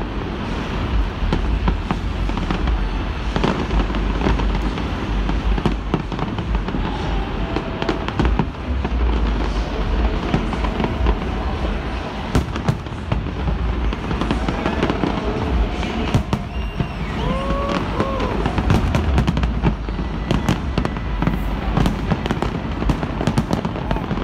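A large fireworks display at full intensity: a dense, unbroken barrage of shells bursting and crackling over a deep rumble, with music playing under it.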